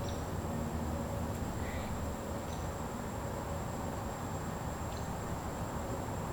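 Wind rumbling through woods under a steady high insect trill, with a few short, high bird chirps about every two and a half seconds.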